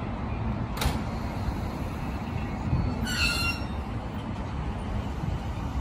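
JR East E233-series electric commuter train at the platform starting to pull away, with a steady low rumble. A sharp click comes about a second in, and a brief high-pitched squeal about three seconds in.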